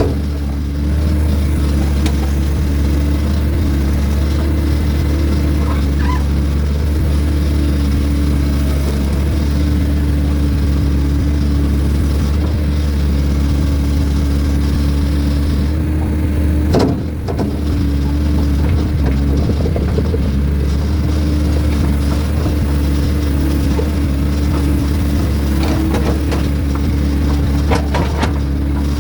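Heavy-equipment engine running steadily under load, with a few short knocks partway through and near the end.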